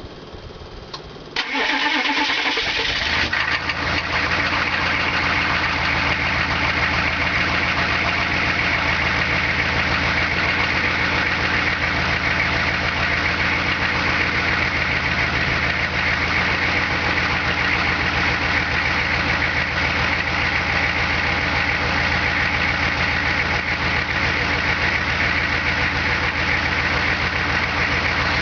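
Diesel truck engine cold-started without its block heater plugged in, on new glow plugs. It catches about a second and a half in, settles over the next couple of seconds and then runs at a steady idle.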